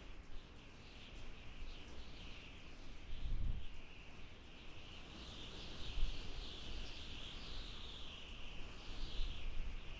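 Howling wind: a high whistle that wavers up and down in pitch without stopping, over a low rumble of gusts that swells briefly about three and a half seconds in.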